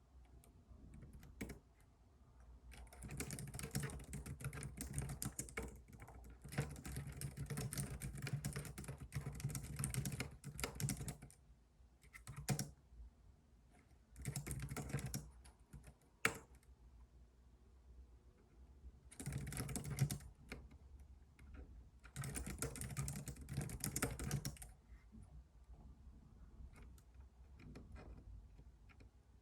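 Computer keyboard being typed on in several bursts of rapid key clicks, the longest lasting about eight seconds, with pauses between, over a low steady rumble.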